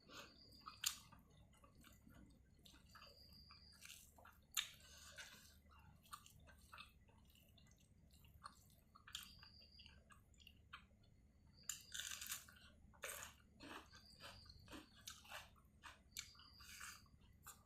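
Faint close-up chewing of pork and rice: irregular wet mouth clicks and smacks, a few louder bites among them.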